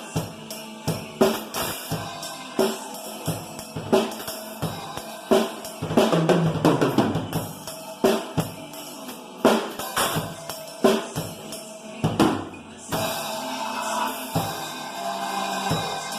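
Acoustic drum kit played in a steady beat, with bass drum and snare hits and cymbals, over a backing track of the song; the cymbals wash more densely in the last few seconds.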